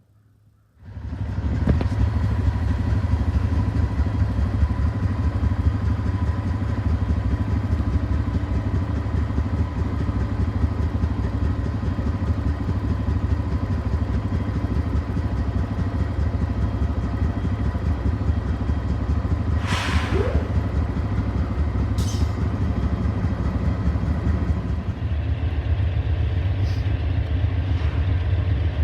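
Freight train's diesel locomotives running with a loud, steady low rumble that starts abruptly about a second in, with two brief sharp high sounds near the end.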